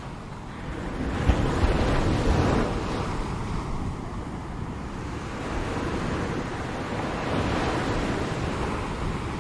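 Ocean waves breaking on a shore, two swells of surf rising and falling, with some wind noise on the microphone.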